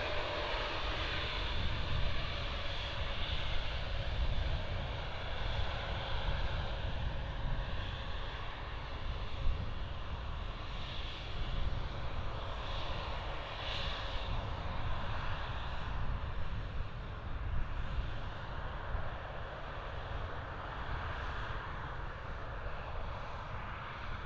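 Boeing 747 jet engines running as the airliner passes: a steady, dense rumble and rush, with a faint falling whine over the first couple of seconds.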